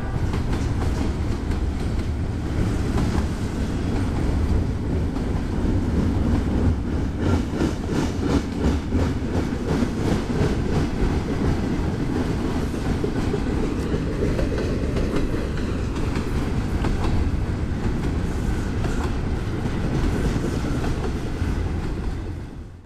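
CSX freight train rolling past at close range: a steady rumble of rail cars with the wheels clattering in rhythm over the rail joints. The sound cuts off suddenly near the end.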